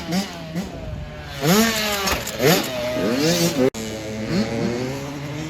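Dirt bike engines revving hard, the pitch climbing and dropping again and again as the bikes accelerate and shift. The sound breaks off for an instant about two-thirds of the way in.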